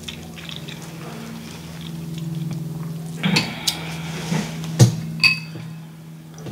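Close-up mouth sounds of chewing a bite of buttered corn on the cob over a steady low hum. In the second half come several sharp clicks and a short ringing clink, like dishes and utensils being touched.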